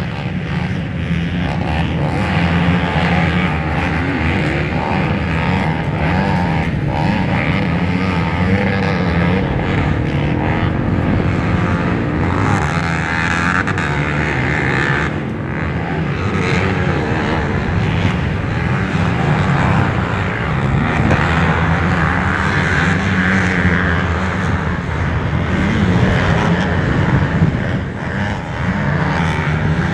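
Motocross bike engines racing on the track, their pitch rising and falling without a break as the riders open and close the throttle.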